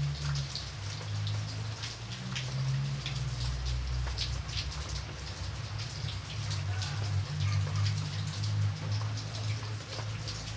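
Steady rain, with many separate close raindrops striking a surface over a low rumble.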